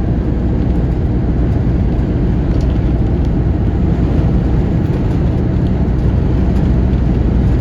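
Steady, deep rumble of a car driving at speed, with road and wind noise.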